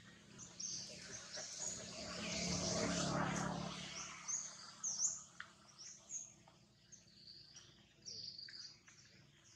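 Small birds chirping and calling again and again in short high notes. About two to four seconds in, a low humming noise swells up, becomes the loudest sound, and fades away.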